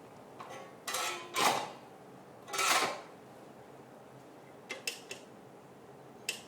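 Kickstarter of a 1974 Bultaco Alpina 350 two-stroke being kicked: a few clanks and scraping swings, the two loudest about a second apart, then lighter clicks, with the engine not yet catching.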